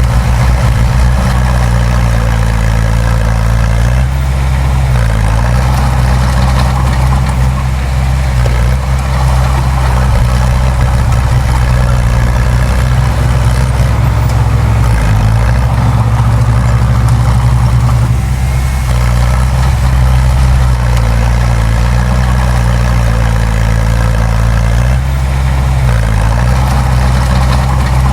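Heavy diesel engine of a bulldozer running steadily. Its pitch dips and recovers about three times as the engine takes load.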